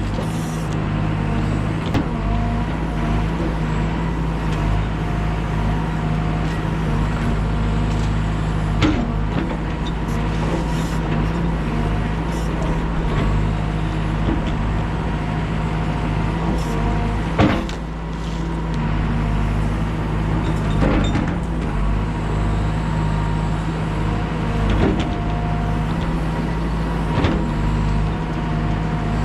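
Heavy diesel equipment engine running steadily at a constant speed, with a few sharp knocks along the way.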